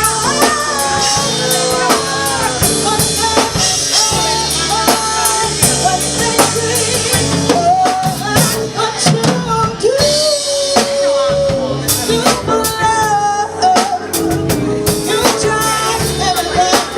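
Live band playing a slow soul ballad: drum kit with rimshots, bass and keys, with a bending melody line over them between the sung verses.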